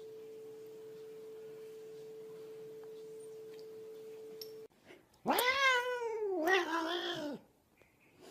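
A faint steady tone for about four and a half seconds, cut off abruptly. A little after five seconds, a cat gives two loud, long meows, the first rising then falling in pitch.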